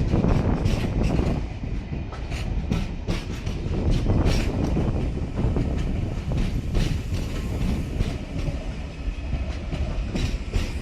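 NSW TrainLink V set double-deck electric train rolling past, its wheels clicking irregularly over rail joints and points above a steady low rumble.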